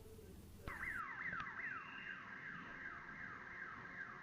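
Railway level-crossing warning alarm sounding with the gate down: an electronic tone that sweeps downward in pitch, repeating about three times a second, starting abruptly a little under a second in.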